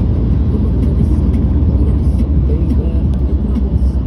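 A steady low rumble with faint indistinct voices over it.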